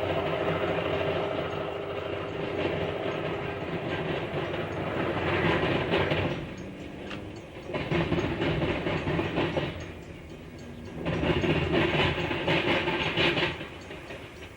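Train going by: a diesel locomotive's engine running steadily, then rail cars clattering over the track in three loud spells before the sound fades near the end.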